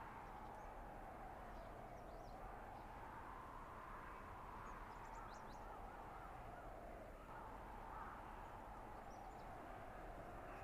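Blizzard wind blowing through a winter forest, a steady rushing with a howling tone that slowly rises and falls. A few faint high chirps come about halfway through.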